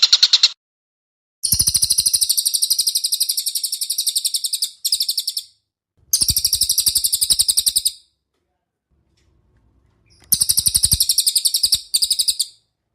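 A bird calling in fast, high-pitched trills of rapidly repeated notes. The trills come in several bursts of one to three seconds, separated by short silences.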